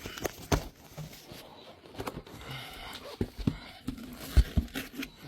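Handling noise from a gasket set in its packaging: rustling and crinkling with scattered light knocks and clicks, and one sharper thump about four seconds in.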